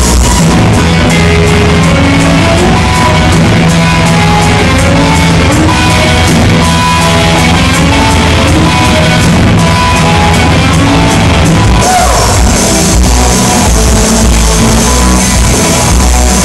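Rock band playing loudly at a sound check, with electric guitar and drums, recorded on a phone.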